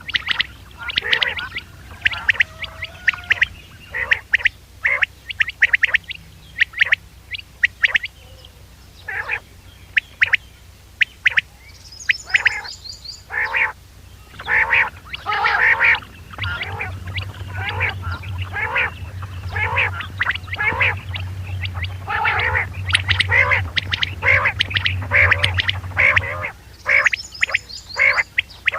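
Recorded quail calls used as a hunting lure: a dense run of short, rapid calls that keeps going without a break. Low hum under the calls from about halfway through until a couple of seconds before the end.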